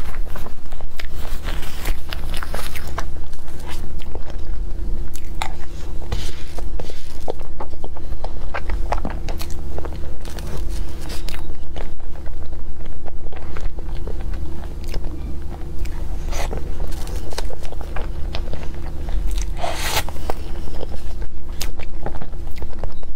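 Close-miked mouth sounds of a person eating soft cream-and-crepe cake: irregular wet smacks and clicks of chewing, over a steady low hum.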